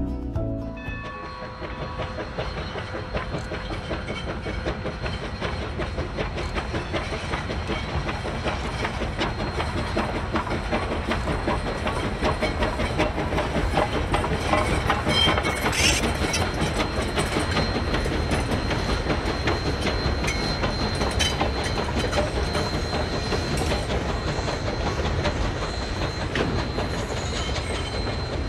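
Freight train hauled by the Santa Maria Valley No. 205 steam locomotive rolling past, its car wheels clacking steadily over the rail joints.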